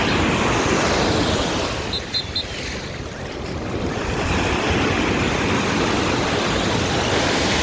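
Ocean surf breaking and washing up the beach in a loud, steady rush. It eases about two seconds in and builds again as the next wave comes in.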